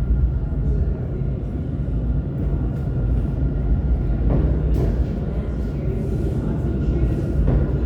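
R46 subway train running into the station: a steady low rumble of wheels on rail with a thin, steady whine over it, and a couple of short clanks about four to five seconds in and again near the end.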